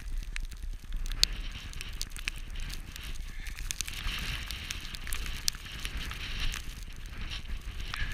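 Crackling clicks over a steady hiss and a low rumble, from wind and snow on the camera's microphone while skiing in a snowstorm.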